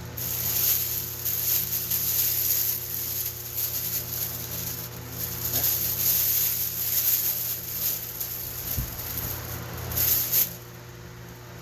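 A loud hissing spray that starts abruptly and rushes on, pulsing, for about ten seconds before cutting off, as smoke is put out to fill the room; a steady low hum runs underneath.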